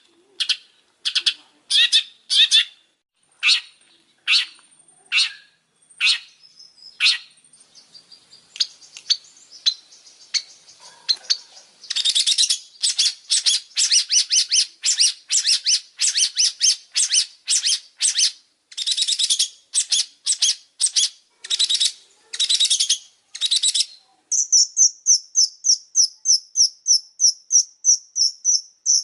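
A long-tailed shrike (pentet) singing loud, harsh chattering notes, spaced out at first and coming quicker about halfway through. Near the end it switches to a fast, even trill of high notes.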